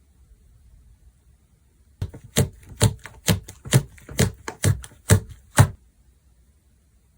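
Slime being pressed and squeezed by hand, making a steady run of about nine sharp clicking pops, roughly two a second, starting about two seconds in and stopping a little before the end.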